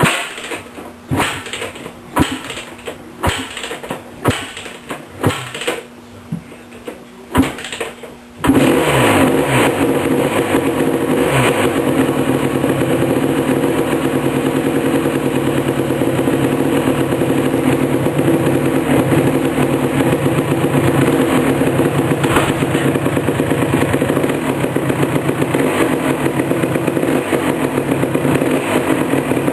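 1988 Suzuki LT250R's 250 cc two-stroke single being kicked over about eight times, each kick a short burst, until it catches about eight seconds in and runs steadily. This is the engine's first start after a complete rebuild with a new Wiseco piston.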